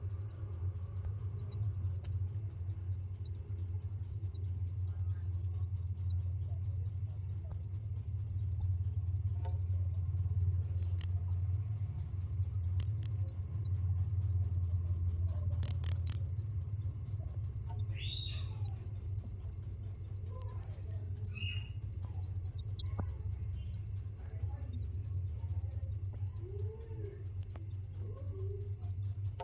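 Cricket chirping steadily in a fast, even rhythm of about three high chirps a second, with one brief break just past the middle, over a faint low hum.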